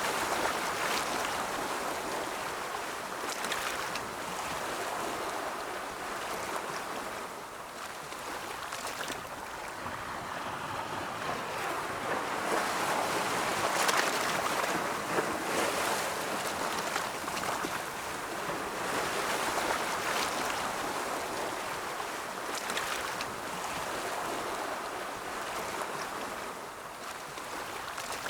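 Ocean waves breaking and washing in a continuous roll, the surf swelling and ebbing every few seconds, loudest about halfway through.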